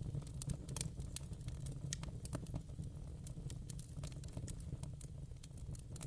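Wood fire burning in a fireplace: irregular crackles and sharp pops, several a second, over a steady low rumble.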